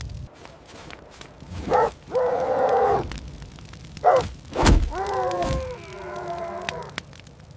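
Sheep bleating: two drawn-out calls, each about a second or more long, that start high and fall in pitch. A dull thud comes between them, at about the middle.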